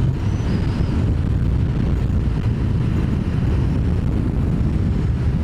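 Ducati Multistrada motorcycle riding at a steady speed, its engine running evenly under a low rumble of wind and road noise.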